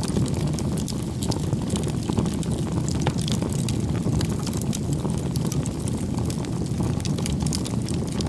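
Campfire burning: a steady low rush of flame with frequent sharp crackles and pops from the burning wood.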